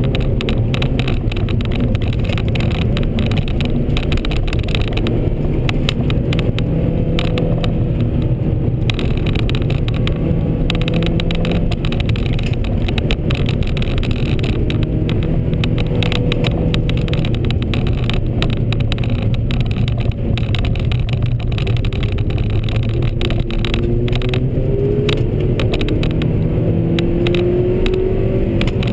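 A Ford car's engine heard from inside the cabin under hard driving, its revs rising and falling as it pulls through the corners and gears, over constant tyre and road noise. The revs climb steadily in the last few seconds.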